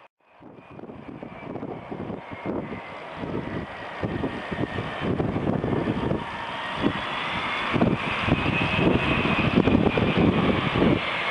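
Airbus A380 jet engines on landing approach, growing steadily louder as the airliner closes in overhead, with a high whine that slides slightly in pitch.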